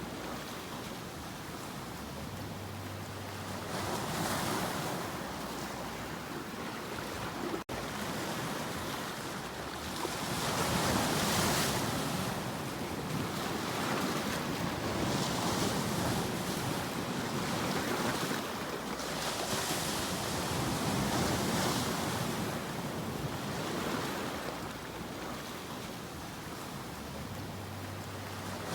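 Sea waves breaking and washing onto the shore, swelling and falling back every few seconds.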